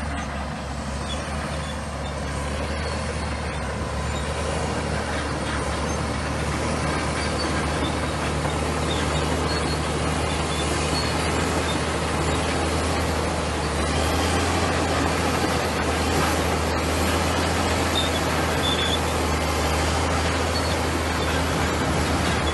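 Komatsu bulldozer's diesel engine running steadily with a deep rumble, growing a little louder a third of the way in and again past the middle.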